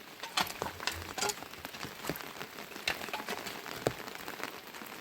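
Rain falling, with scattered drops ticking irregularly on a nearby surface.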